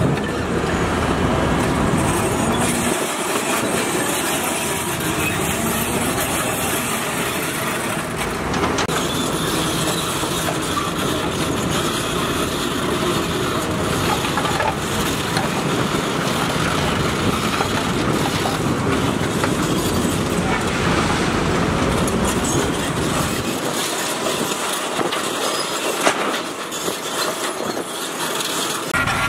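Heavy construction machinery working, such as excavators, a bulldozer and dump trucks: a steady, loud din of diesel engines with metal clatter and squeal.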